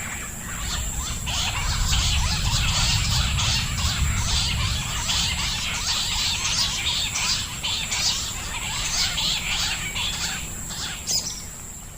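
Many small birds chirping and squeaking densely, with rustling, over a steady high thin tone. The chirping thins out near the end.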